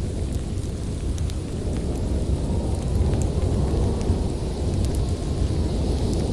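Strong storm wind blowing as a steady low rush, with scattered sharp crackles and pops from a wood fire in a fireplace.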